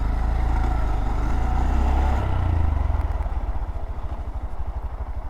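Motorcycle engine running steadily while under way, with a slight change in engine pitch about two seconds in.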